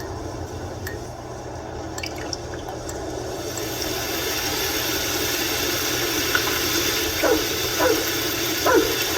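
Steady rain falling, growing heavier about three and a half seconds in. Near the end come three or four short, faint calls that fall in pitch.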